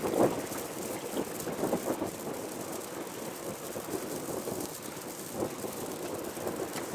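Wind rumbling on the microphone over a steady hiss of outdoor wind and water noise.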